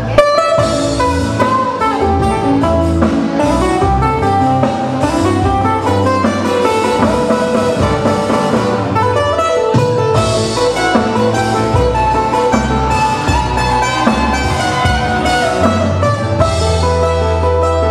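Live Hawaiian band playing an instrumental passage: a guitar picks a melody with notes sliding up and down, over bass and a light beat, with no singing.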